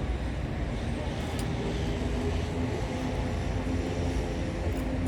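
Steady low mechanical hum and rumble, with a faint click about a second and a half in.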